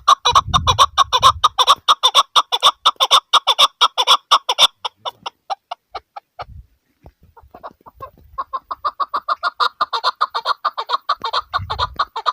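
Chukar partridge calling: a fast run of repeated clucking 'chuk' notes, about six a second, that thins out and stops midway, then starts up again after a short pause.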